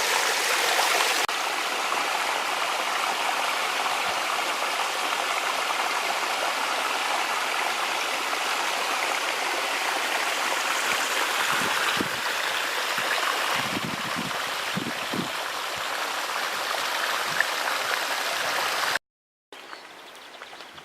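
Steady rushing water of a mountain stream. Near the end it cuts out for a moment and comes back much quieter.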